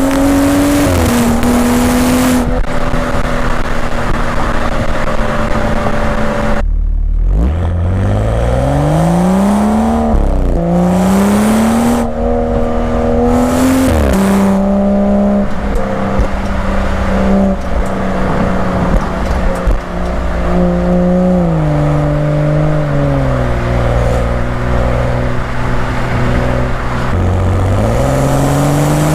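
BMW M235i's turbocharged straight-six exhaust under hard acceleration. The pitch climbs steeply through two gears, each ending in a quick drop at the shift, then holds at a steady pitch. It steps down lower twice and starts rising again near the end.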